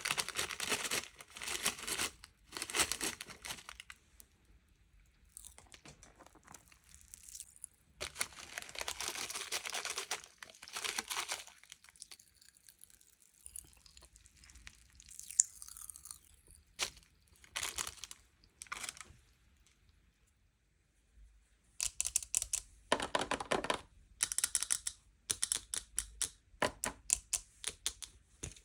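Packaging being torn open and crinkled by hand in separate bursts, with a run of quick crackling in the last several seconds.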